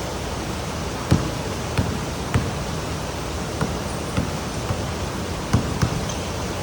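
Pouring rain, a steady hiss, with about seven sharp, irregular knocks of heavy drops or drips landing on a hard surface.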